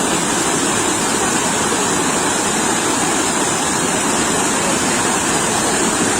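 Sea waves washing on a beach, heard as a steady, even rush of surf without separate breaks standing out.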